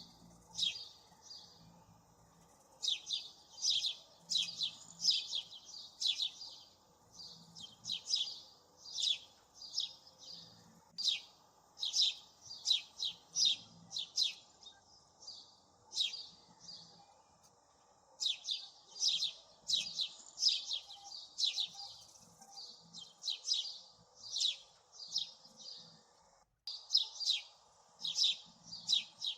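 Small birds chirping: quick, sharp, high chirps in clusters of several, repeating every second or so, over a faint steady hum.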